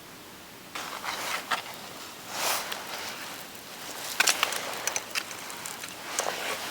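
Rustling of dry brush and fallen branches, with sharp twig snaps and cracks, starting about a second in and coming in uneven swells.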